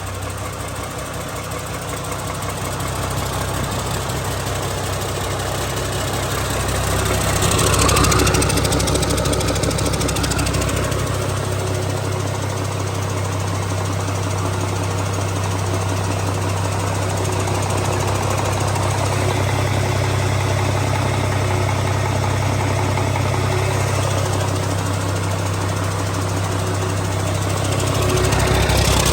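2005 Mack AI inline-six diesel engine running at a steady idle, revved up briefly about a quarter of the way in and again near the end.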